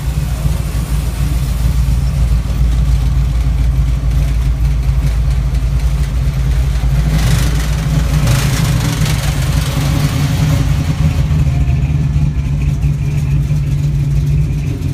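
A car engine running close by, a steady deep low rumble, swelling with a louder hissing rush about halfway through.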